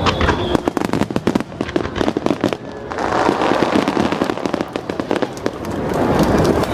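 Aerial fireworks display: shells bursting with a dense, rapid crackle of many small pops, thickest in the first three seconds.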